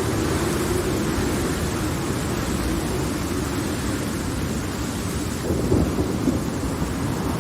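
Steady rain with low rumbling thunder, swelling a little about five and a half seconds in.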